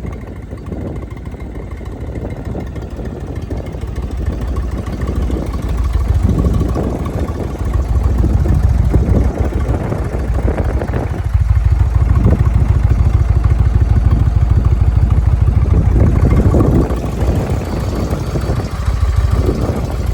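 2018 Indian Chieftain's V-twin engine running, a steady low rumble that grows louder about a third of the way in and stays strongest through the middle, with a couple of short dips in level.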